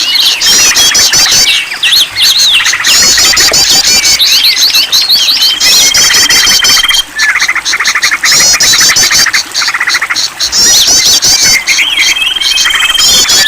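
A dense chorus of several songbirds layered together, as in a bird-lure recording: rapid chirps and fast trills overlap without pause, and a long steady whistle sounds twice, once about six seconds in and again near the end.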